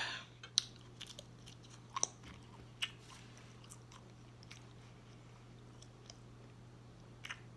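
A person chewing a mouthful of food close to the microphone: soft, scattered mouth clicks and smacks, most of them in the first three seconds, over a faint steady low hum.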